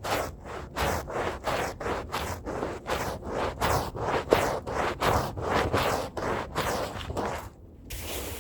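Stiff hand brush scrubbing a rug's pile in quick back-and-forth strokes, about three a second, stopping shortly before the end.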